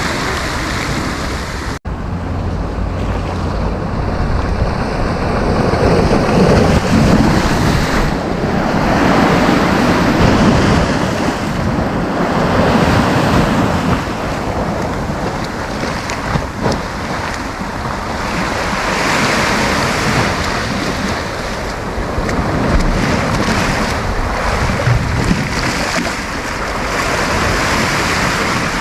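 Sea surf breaking and washing up the beach, swelling and easing every few seconds, with wind rumbling on the microphone. The sound drops out for an instant about two seconds in.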